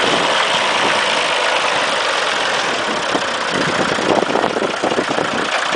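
Massey Ferguson 1075 tractor's diesel engine running steadily at idle, turning rougher and more uneven in the second half.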